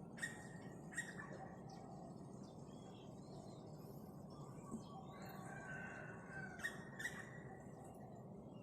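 Wild birds calling: a few sharp, short calls near the start and again twice around seven seconds in, with a held whistled note between them, over a faint steady background hiss.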